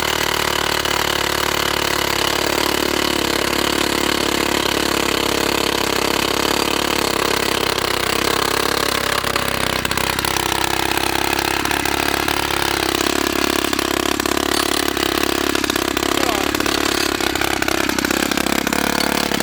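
YN30A mini rock drill's two-stroke petrol engine running steadily while drilling into rock. Its pitch shifts about halfway through and again a few seconds later, with fast knocking from the drill's hammering in the second half.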